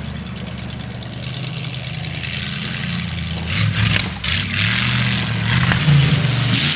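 Demolition derby car's engine running at a steady low idle, then revved and pulling away from about three and a half seconds in, getting louder with rougher, noisy bursts.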